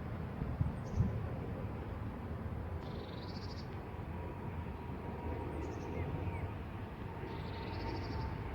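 Small birds singing short, high chirping trills every few seconds over a steady low outdoor rumble, with a couple of low thumps about a second in.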